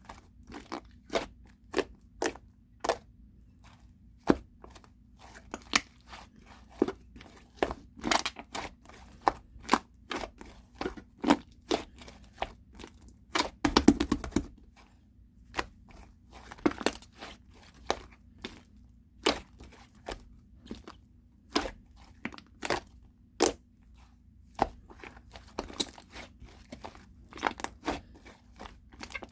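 Clay slime being squeezed and poked by hand: a string of sharp, crisp clicks and crunches, about one or two a second, with a longer crunchy burst about halfway through.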